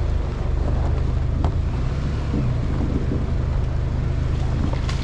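GMC Canyon pickup's engine running with a steady low hum while the truck crawls over a rough off-road trail, with a few faint knocks.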